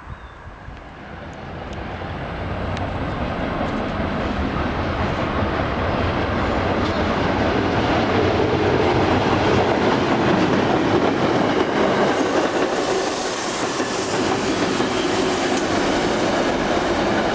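Long Island Rail Road train passing on the tracks, with wheels clattering over the rails. It grows louder over the first several seconds, then stays loud.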